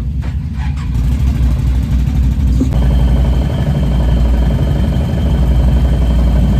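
ATV engine running at idle with a steady low rumble. About three seconds in it grows louder and a steady high whine comes in with it.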